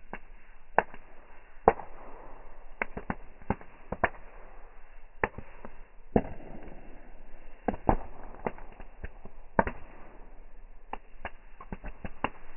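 Bonfire crackling: burning wood pops and snaps at irregular intervals over a steady hiss of flame, with a few louder cracks.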